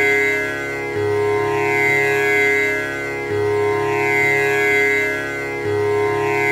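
Tanpura drone: its strings plucked in a steady repeating cycle, the pattern starting over about every two and a third seconds, with a rich, shimmering buzz of overtones sustaining between plucks.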